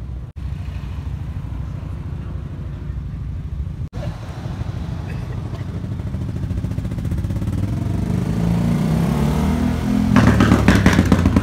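Ford Shelby GT500's supercharged 5.2-litre V8 idling with a low, lumpy exhaust note, growing louder over the last few seconds and loudest and roughest for the final second or so.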